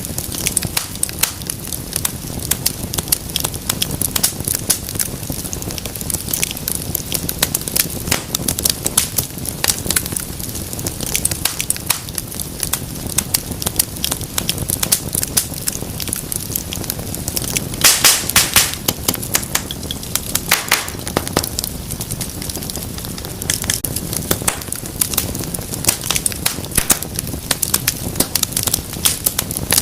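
Wood fire burning with a steady low rumble and frequent sharp crackles and pops, a quick cluster of louder pops about 18 seconds in.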